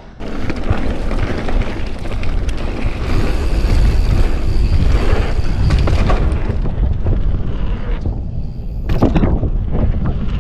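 Wind buffeting the microphone during a fast mountain bike descent, with the rush of tyres on the dirt trail and scattered clicks and knocks from the bike. The sound is heaviest in the middle and eases off near the end.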